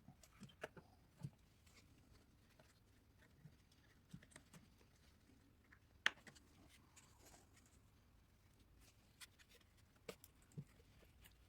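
Near silence broken by a few faint, scattered clicks and taps, with one sharper click about six seconds in.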